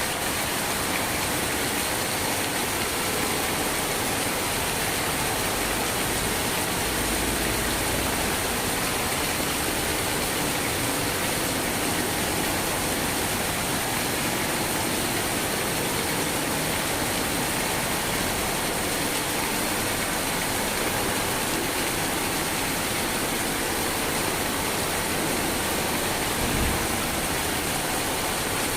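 Steady heavy rain, an even hiss that does not change in level.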